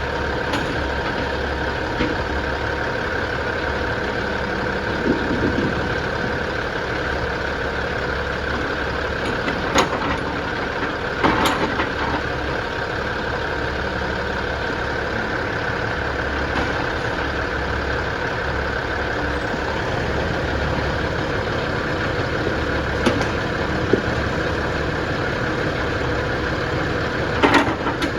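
Heavy diesel machinery engine running steadily at idle, with a few sharp knocks and clatters about ten seconds in, again a second or so later, and near the end.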